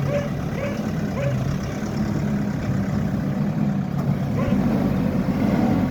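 Diesel engine of a Hidromek backhoe loader running under load during demolition and rubble clearing. It grows heavier from about four and a half seconds in, as the engine revs up.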